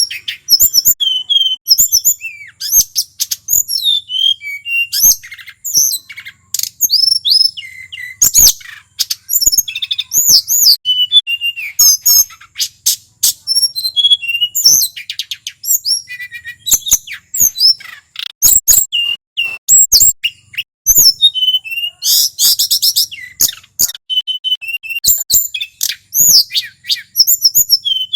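A male tledekan gunung singing a long, unbroken run of rapid, varied high-pitched whistles, chirps and trills, with a harsher buzzy phrase partway through.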